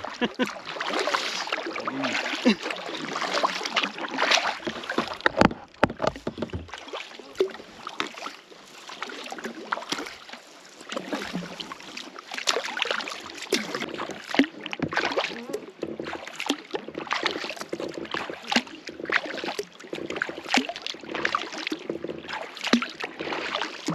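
Kayak paddles dipping and splashing in lake water, stroke after stroke.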